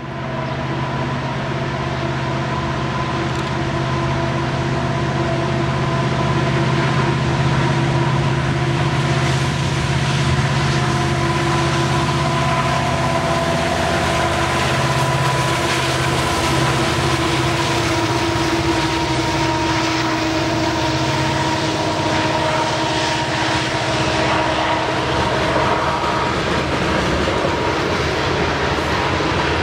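Canadian National ore train passing: diesel locomotives running with several steady tones over the continuous noise of the train, rising in the first second and then holding steady.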